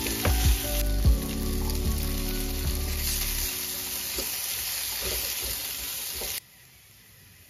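Sliced onions, whole spices and cashews sizzling in oil in a non-stick kadai, with a spatula stirring and scraping against the pan a few times in the first seconds. The sizzle cuts off suddenly near the end.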